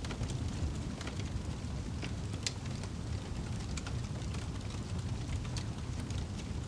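Wood fire burning in a fireplace: a steady low rush with scattered sharp crackles and pops, one louder pop about two and a half seconds in.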